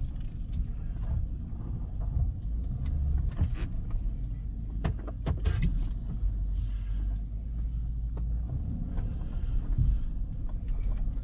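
Pickup truck heard from inside the cab as it moves off: a steady low engine and road rumble, with a few light knocks and clicks.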